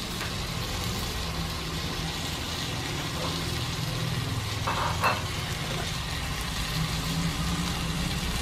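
Chicken and rice sizzling in a Lodge cast iron Dutch oven over a gas burner, a steady hiss over a constant low hum. A couple of light clicks come about five seconds in.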